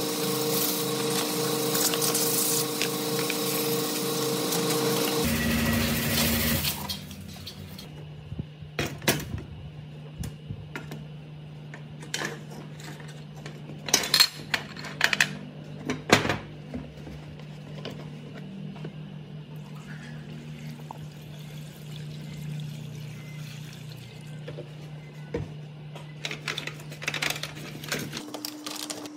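A loud machine running steadily, which cuts off about six seconds in. It is followed by a low steady hum and scattered clinks and knocks, as of metal parts being handled.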